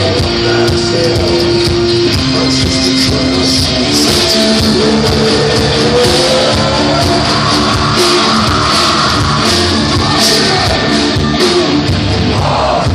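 Heavy metal band playing live, loud: drums and guitars under held melodic notes, one of which slides upward about four seconds in.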